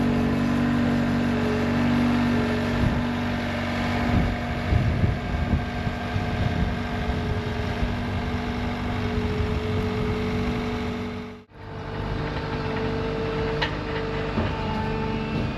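A vehicle engine idling steadily, with some irregular knocks and clatter a few seconds in; the sound drops out briefly about eleven and a half seconds in, then the engine carries on.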